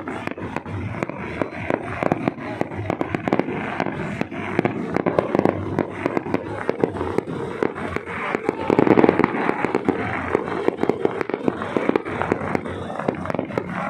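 Fireworks going off in a dense, continuous run of rapid sharp cracks and pops over a steady crackling din, a little louder about nine seconds in.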